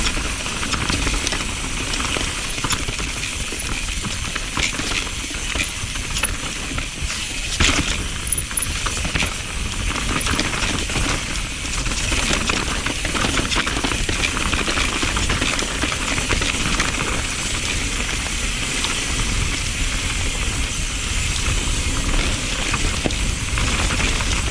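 Mountain bike riding over a wet, rooty trail: a steady rush of tyre and wind noise with a constant clatter of knocks and rattles from the bike.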